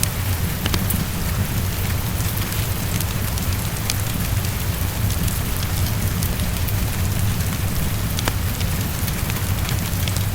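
Heavy rain falling steadily with a deep low rumble underneath, and scattered sharp crackles and pops from a wood fire.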